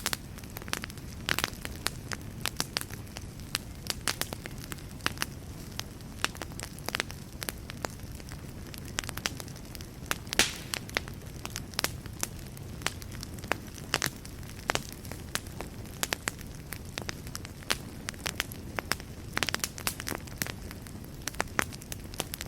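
Wood fire burning in a fireplace: a steady low rumble of flames with frequent irregular crackles and pops, one sharper pop about ten seconds in.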